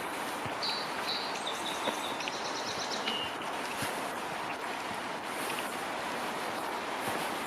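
A songbird sings one short phrase of high chirps running into a quick trill and a lower closing note, about a second in, over a steady rushing background of wind or water. Faint footsteps tick about once a second.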